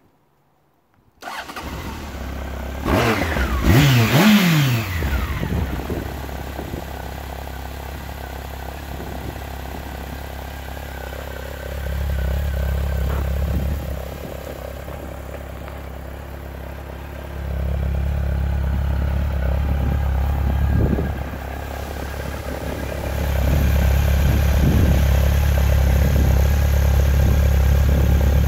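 Honda CB1300's inline-four engine starting about a second in. It is revved once, loudly, the pitch falling back a couple of seconds later, then it idles steadily. The idle grows louder in steps, loudest near the end.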